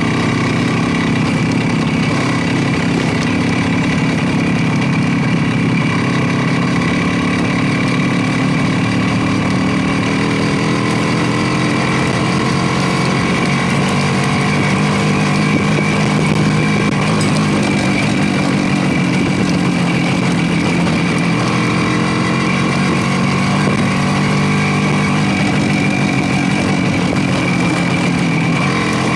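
Motorcycle engine running steadily under way, its pitch drifting a little as the revs change.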